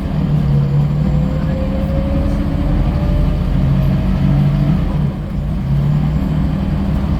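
Scania L94UB single-deck bus running under load, its engine droning steadily with a whine that rises slowly in pitch over the first four seconds as it gathers speed, then dips briefly about five seconds in.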